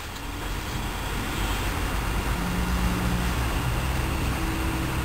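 Vehicle engine running: a steady low hum, with a drone that shifts in pitch a couple of times.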